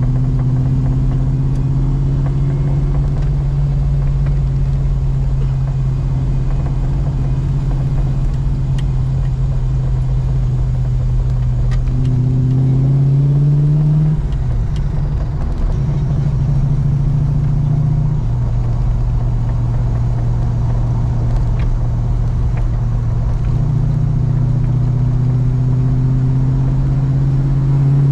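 Holden Commodore engine being run in on the road, pulling under load with its note climbing slowly as it accelerates, then breaking and dropping at a gear change about halfway through before climbing again.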